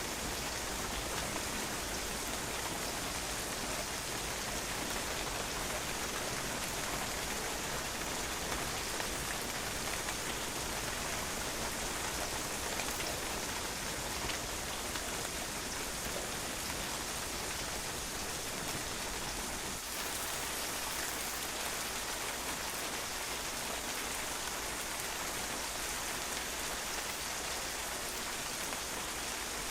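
Steady rain falling on a patio, a dense even patter of drops splashing on the hard surface.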